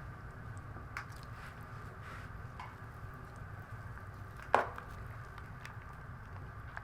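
Light clicks of cutlery and dishes, with one sharp clink about four and a half seconds in, over a steady low rumble.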